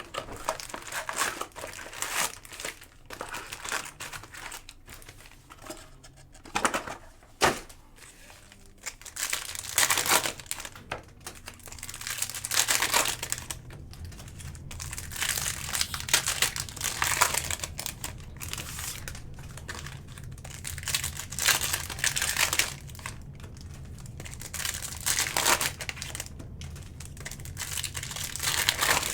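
Foil card packs and plastic wrap from a box of Topps Cosmic Chrome baseball cards crinkling and tearing in irregular bursts as the box is opened and the packs ripped. A sharp click comes about seven seconds in, and a low steady hum sets in after about ten seconds.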